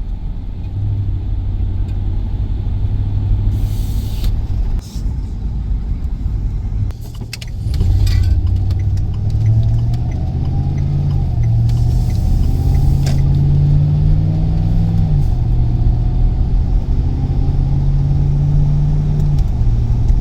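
Chevy Express van's engine and road noise while driving, heard from inside the cab. After a dip about seven seconds in, the engine note climbs in steps as the van accelerates through the gears, then holds and drops back near the end.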